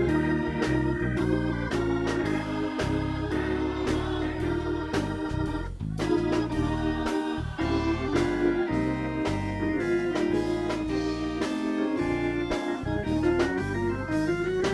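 Church music: organ chords held over a moving bass line, with frequent drum hits.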